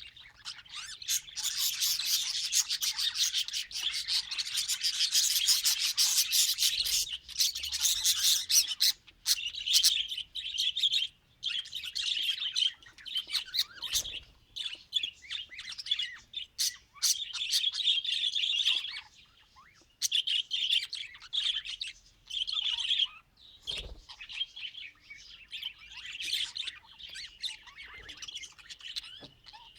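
Budgerigar chirping and chattering in a rapid, high-pitched warble. It is densest and loudest over roughly the first nine seconds, then breaks into shorter bursts with brief pauses between them.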